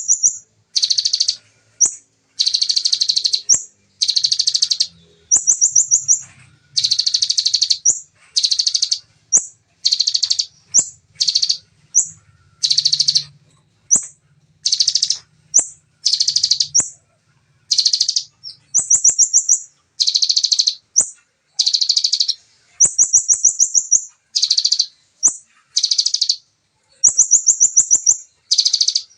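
Songbird singing fast, tightly packed ciblek-style 'shooting' phrases, about one a second, each a short burst often ending in a rapid high trill.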